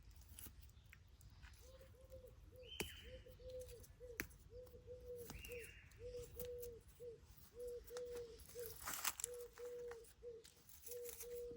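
Faint bird calls: a few high chirps that fall in pitch, over a low note repeated about twice a second at a steady pitch, with a few light clicks.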